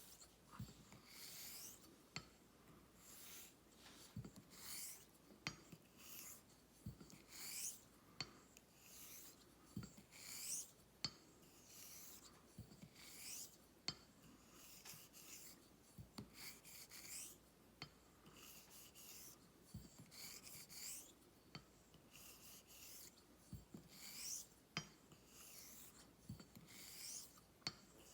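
Vintage 6/8-inch hollow-ground straight razor drawn across a wet honing stone in repeated strokes, giving a faint scraping hiss about once a second, with light sharp clicks between strokes.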